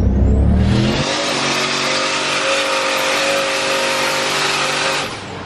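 Turbocharged LS1 V8 of a Holden VY Commodore SS heard from inside the cabin, accelerating hard with a rising pitch and a thin climbing whistle for about the first second. It then holds high revs at a steady pitch under a loud rushing noise, which drops away near the end.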